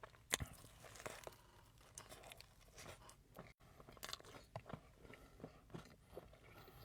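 Close-miked mouth sounds of someone chewing a frosted donut with a dirt-cake crumb and gummy topping: faint, scattered crunchy clicks and wet smacks, with one sharper click near the end.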